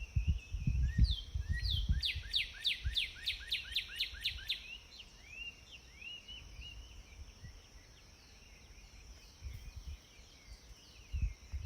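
House sparrows chirping: scattered cheeps, then a quick run of about ten falling notes, two or three a second, about two seconds in, and a few softer chirps after. Low bumps and rumble sound under the calls in the first few seconds.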